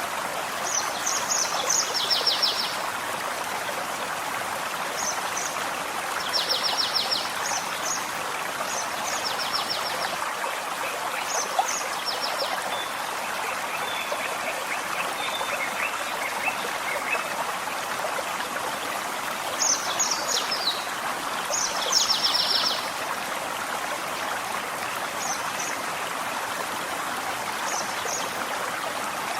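Forest stream flowing steadily, with songbirds singing short, rapid high-pitched trills several times over it, and a lower, softer trill about halfway through.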